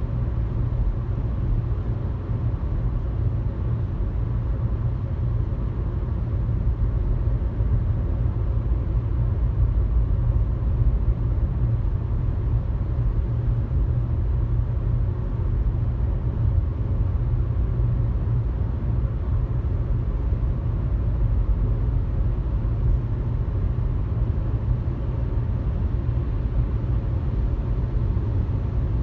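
Steady low rumble of a car cruising at highway speed: tyre, road and engine noise, even throughout.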